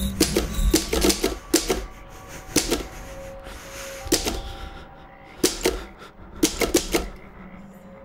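Keys of a vintage manual typewriter striking in irregular bursts. A quick run of about eight strokes comes first, then single strokes and pairs spaced out, and the typing stops about a second before the end.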